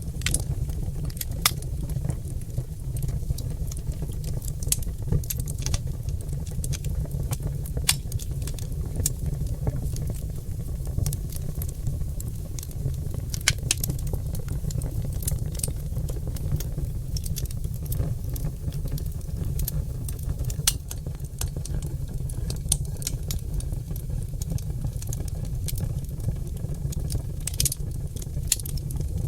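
Oak logs burning in a fireplace, crackling with irregular sharp pops and snaps scattered throughout, over a steady low rumble.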